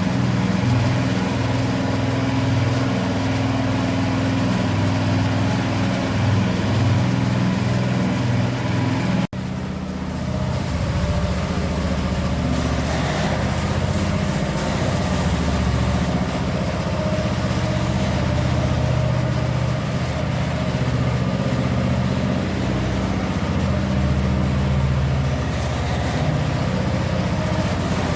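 Engine of a power trowel running steadily while it finishes a fresh mortar floor screed. It briefly cuts out about nine seconds in and then carries on.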